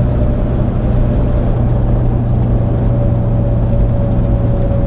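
Steady engine and road noise heard from inside a diesel vehicle's cab while driving, a low hum under a wash of tyre noise, with a faint steady whine.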